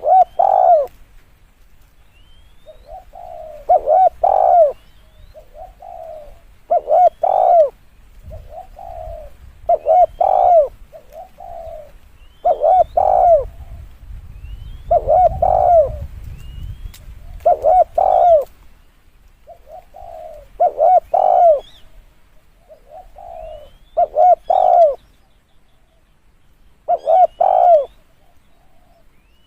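Spotted dove cooing: the same phrase repeats about every three seconds, a soft opening note followed by two louder, drawn-out coos.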